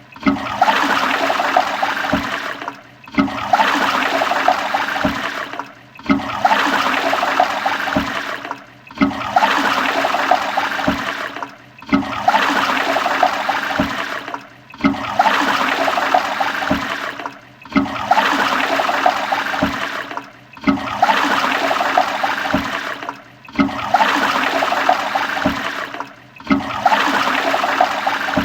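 Toilet flushing: a loud rush of water swirling through the bowl, the same short flush repeating about every three seconds with a brief dip between each.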